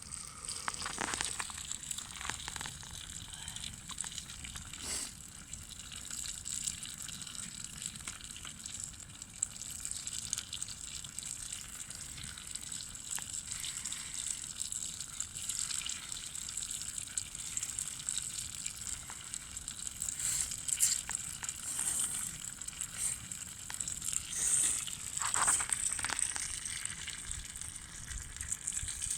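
Food frying over a wood campfire: a steady sizzling hiss with scattered pops and crackles, and a few louder crackles along the way.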